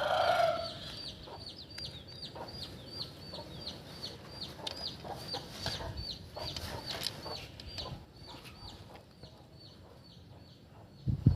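A rooster's crow ends just at the start, then a small bird gives short high chirps, about three a second, that thin out near the end.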